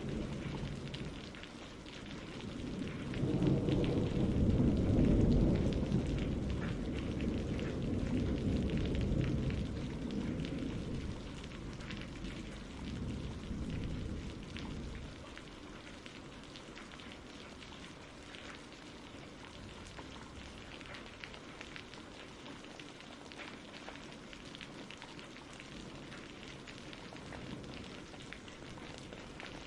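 Storm ambience: steady rain with scattered drips, and a low rolling thunder rumble that swells in the first half and dies away about halfway through, leaving only the rain.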